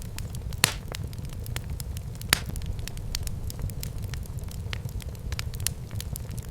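Wood fire burning in a fireplace, crackling steadily over a low rumble, with two louder pops, one under a second in and one just over two seconds in.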